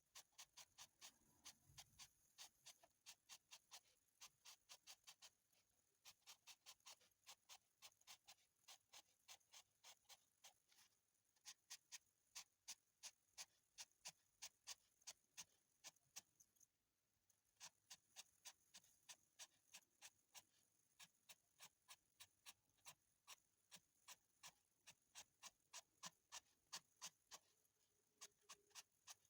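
Charcoal pencil making short, quick strokes on paper, faint scratches at about three a second, with a few brief pauses between runs.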